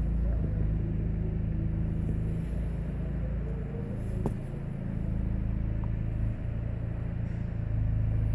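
Used Kia car engine running steadily at idle, a low even hum with a brief dip in level about six seconds in.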